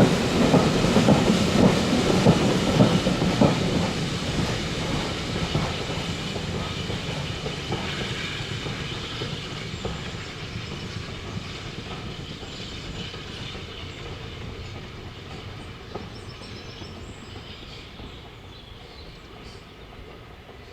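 Steam-hauled heritage train running along the line, wheels knocking over the rail joints, fading steadily as it moves away into the distance.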